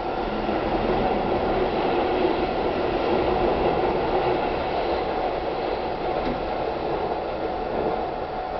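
Keihan Railway electric train passing over a level crossing: a steady noise of wheels on rail that is loudest in the middle and fades near the end.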